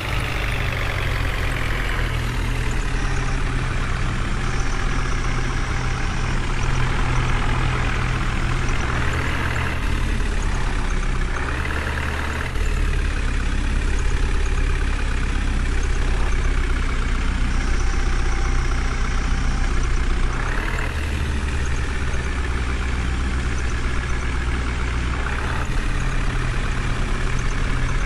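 Heavy diesel engine running steadily, revving up briefly a few times as it works under changing load.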